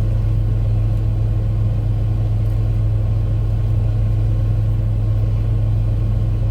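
Steady low hum of an idling vehicle engine, even throughout.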